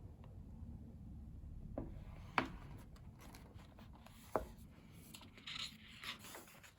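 Handling noise: two sharp clicks a couple of seconds apart, then brief rustling and rubbing of paper, as a photobook is handled and its pages are moved, over a low steady hum.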